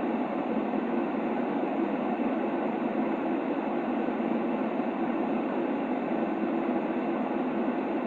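Steady, unbroken white-noise track of the kind played to lull a baby to sleep. It is a muffled, even rushing sound with little deep rumble and no high hiss, and it does not change.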